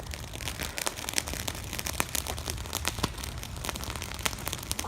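Fireworks crackling: a fast, irregular run of many small, sharp pops, not loud bangs.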